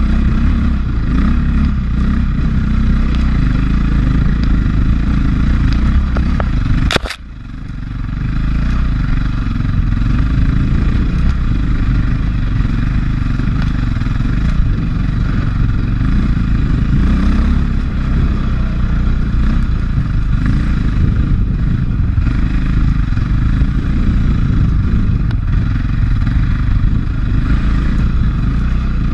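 450cc four-stroke dirt bike engine running continuously as the bike is ridden along the trail, heard through a helmet camera. A sharp click and a brief drop in level come about seven seconds in.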